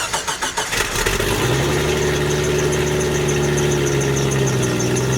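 Jeep Wrangler engine turning over on the starter for about a second, then catching and settling into a steady idle.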